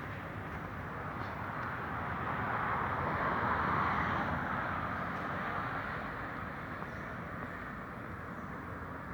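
A vehicle passing by: a steady rushing noise that swells to a peak about four seconds in and then fades.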